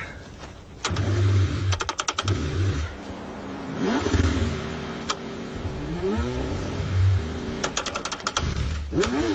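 Car engine cranking over in repeated short bursts in the cold without catching, with runs of rapid clicking between some of the attempts.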